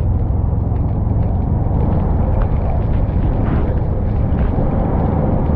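Motorcycle on the move: a steady low rumble of engine and wind noise on the camera microphone.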